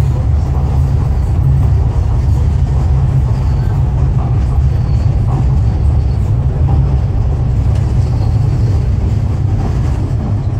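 Docklands Light Railway train running at speed, heard inside the carriage as a steady low rumble of wheels on rail.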